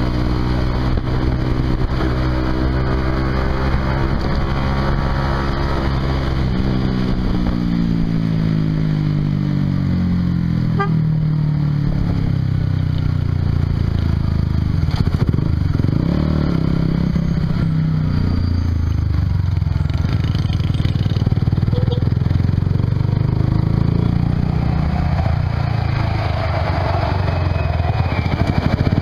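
Honda CBR150R's single-cylinder engine running through an aftermarket Yoshimura exhaust while riding, its note falling a few seconds in, then holding and rising again with the throttle.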